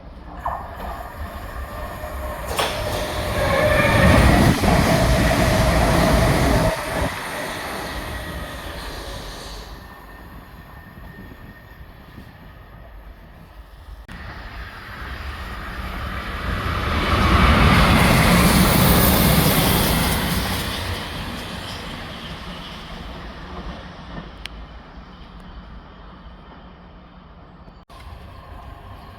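Two South Western Railway passenger trains passing through a station, each building to a loud rush of wheels on rail and then fading. The first pass cuts off suddenly about seven seconds in; the second peaks a little past the middle and dies away slowly.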